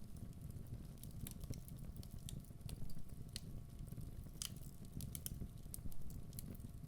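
Wood logs burning in a fireplace: a steady low rumble of the flames with irregular sharp crackles and pops scattered throughout.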